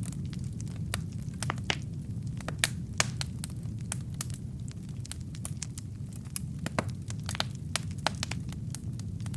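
Wood logs burning in a fireplace: a steady low rumble of the flames with irregular sharp crackles and pops, several a second, two louder pops about three seconds in.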